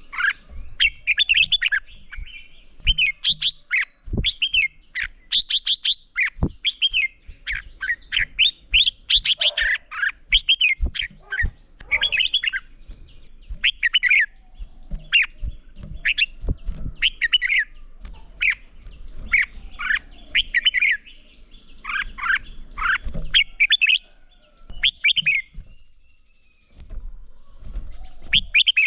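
Red-whiskered bulbul singing in quick, short phrases of bright, warbling whistled notes, repeated with brief pauses between them. A few soft low knocks sound underneath.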